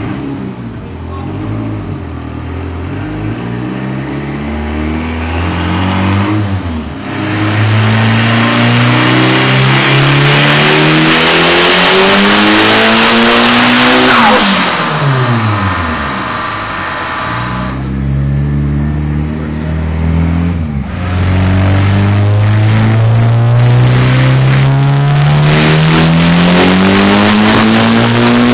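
Car engine making full-throttle pulls on a chassis dynamometer. Its pitch climbs steadily to a peak about halfway through and falls sharply as the throttle is released. A second long climb builds toward the end.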